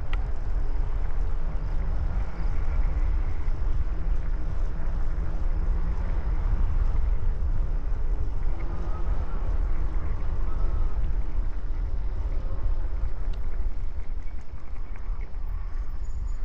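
Steady wind rumble on the microphone while riding a bicycle, with a faint wavering hum underneath.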